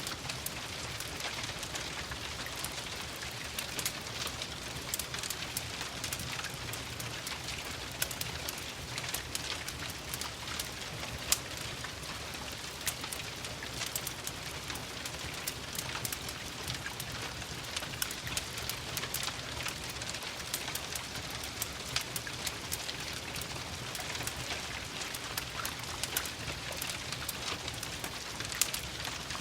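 Steady rain with a wood fire crackling, its sharp pops and snaps scattered irregularly over the hiss of the rain.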